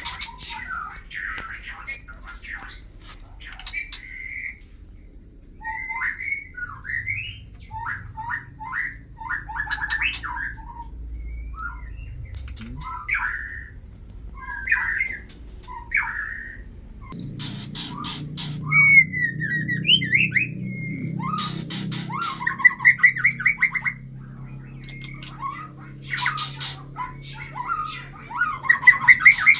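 White-rumped shamas (murai batu) in their breeding cage giving short chirps and call notes, mixed with sharp clicks; the calling gets denser about halfway through.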